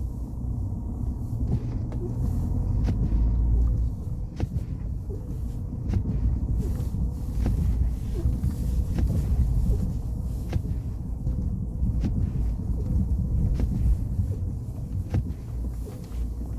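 Blizzard wind buffeting the microphone: a heavy low rumble that swells and drops in gusts, easing briefly about four seconds in, with scattered short clicks.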